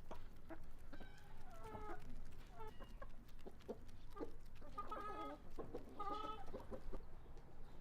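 Domestic chickens clucking in short pitched calls, in bouts about a second in, near three seconds and again around five to six seconds, with scattered light clicks between them.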